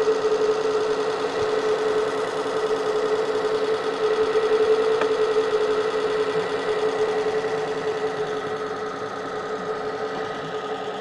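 Homemade outer-rotor inductor motor with permanent magnets running on a 19 V supply: a steady electric whine with a strong single pitch and buzzing overtones, growing slightly quieter in the last few seconds.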